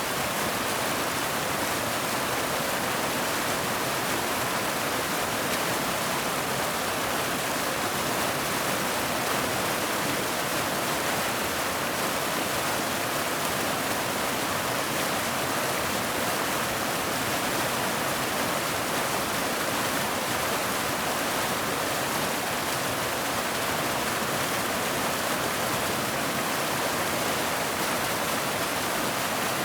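Waterfall: a steady, unbroken rush of falling water with a dense hiss.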